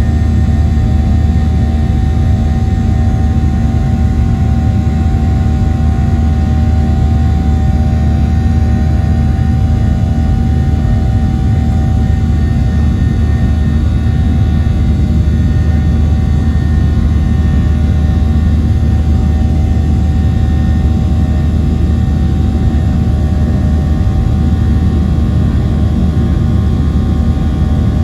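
Cabin noise inside a Boeing 737-700: its CFM56-7B jet engines and the airflow make a steady loud rush, with several steady whining tones above it.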